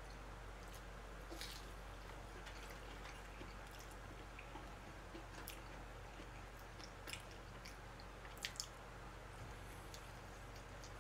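Faint chewing and mouth sounds of someone eating, with a few short clicks of chopsticks against a plastic takeout tray, two in quick succession about eight and a half seconds in, over a steady low hum.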